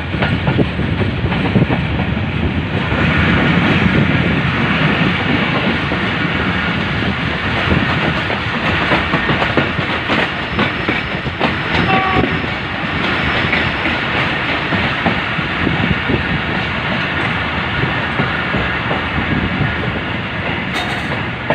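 Karachi Express passenger train running along the track: a steady, loud rumble of wheels on rails with many fine clicks throughout.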